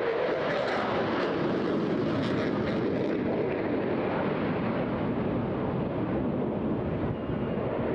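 Eurofighter Typhoon fighter jet in flight, its twin EJ200 turbofans giving a steady, dense jet roar that holds an even level.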